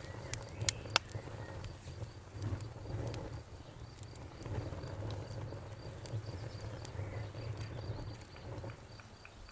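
Wood fire burning with a low rumble, sharp crackles and pops, the loudest in the first second. Crickets chirp in a steady, evenly pulsing rhythm behind it.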